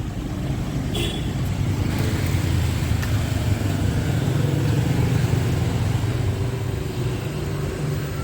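Street traffic: a motor vehicle's engine running close by, a steady low hum that grows louder toward the middle and eases off near the end.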